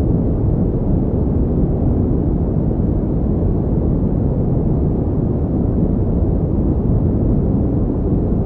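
Synthetic pink noise as a continuous, unchanging rush. It is deep, with little treble.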